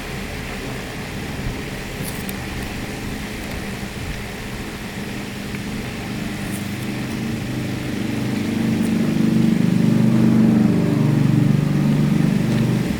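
A motor running steadily with a low hum. It grows louder about two-thirds of the way through, then drops back.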